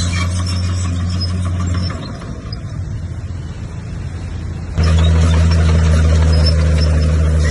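Bulldozer's diesel engine running with a steady low hum; it fades about two seconds in and comes back suddenly and louder near the end.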